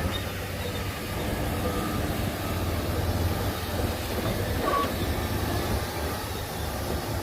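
Heavy diesel engine of earthmoving machinery running steadily with a low rumble, as a bulldozer and dump trucks work stone fill. A short high-pitched tone sounds about two-thirds of the way in.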